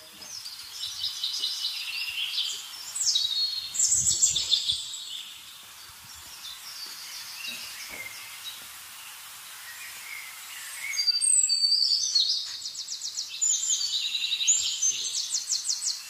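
Small birds singing in high chirps and rapid trills, in several bouts with a quieter lull in the middle, over a steady outdoor background hiss.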